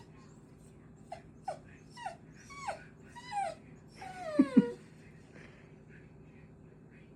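A small dog whining in a run of about six short cries, each falling in pitch, getting longer and louder until a final, loudest whine breaks low near the middle. It is whining because it is too scared to jump past a bucket blocking its way upstairs.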